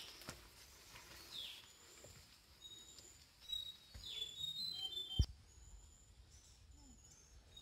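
Forest birds calling: short, high whistled notes scattered throughout, with a couple of falling calls. A single sharp knock about five seconds in is the loudest sound.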